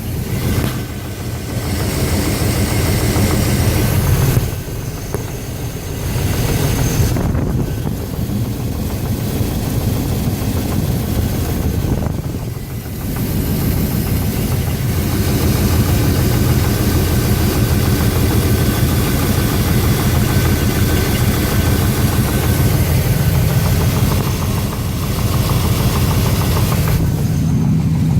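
350 V8 engine running, dropping back briefly a couple of times and then holding steady. The owner questions whether the sound it makes is a rod knock.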